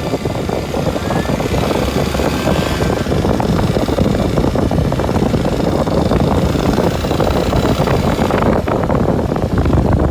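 Kawasaki Super Sherpa's 250 cc single-cylinder four-stroke engine running steadily as the dual-sport motorcycle is ridden along an unpaved forest road.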